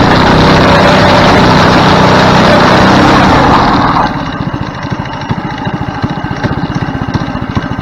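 Go-kart's small engine running loudly under throttle, then about four seconds in it drops back to a slower, pulsing idle.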